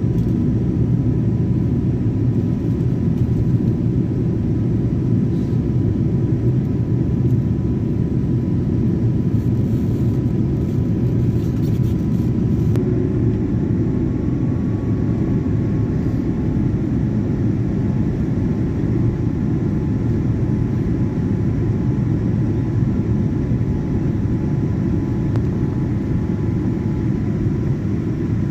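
Airliner in flight making a steady, unchanging low rumble, with a faint steady tone above it.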